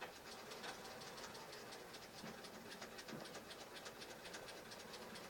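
Sears Kenmore sewing machine running, a faint, rapid, even clicking of about eight strokes a second that starts suddenly. The owner judges from the test that the machine still needs to go back to the shop.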